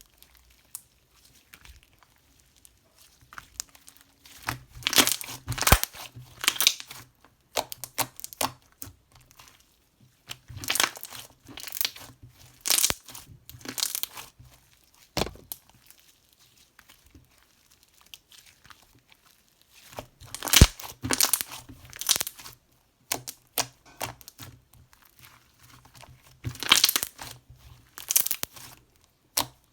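Crinkling and rustling of a thin, crinkly material being handled close up. It comes in bursts of a second or two with quieter pauses between them.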